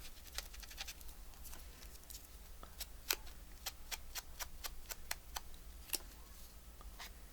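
Faint, light, sharp clicks, roughly three or four a second and quicker in the first second, from hands working with a craft tool on paper.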